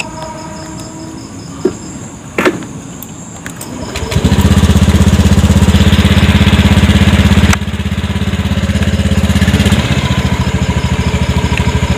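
A motorcycle engine starts about four seconds in and runs at idle with a steady, rapid low beat. Before it starts, two sharp clicks sound over a quiet background.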